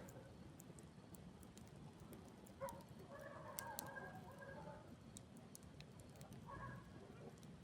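Campfire crackling faintly with scattered sharp pops. A distant animal call rises over it about two and a half seconds in and lasts around two seconds, with shorter calls near the start and near the end.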